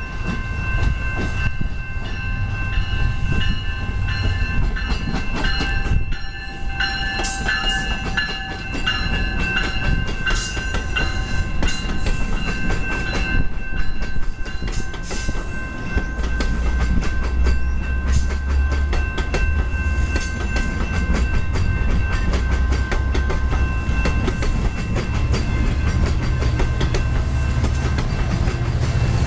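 Commuter train running past on the rails, with a continuous clatter of wheels over the track. Several steady high ringing tones sound through the first half and fade out about halfway. After that a deep low rumble grows stronger.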